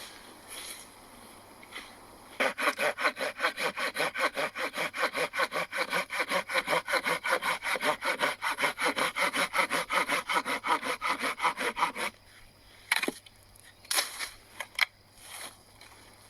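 Hand saw cutting through firewood in quick, even back-and-forth strokes for about ten seconds, then stopping, followed by a few separate knocks of wood.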